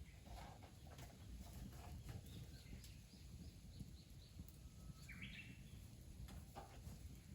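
Faint bird calls in quiet rural surroundings: a quick run of short high chirps, then a single louder call about five seconds in, with a few soft clicks over a low background hum.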